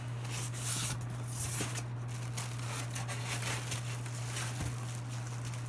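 Cardboard and plastic packaging rustling and crinkling in many short scrapes as the ceiling fan's blades are handled and unpacked, over a steady low hum.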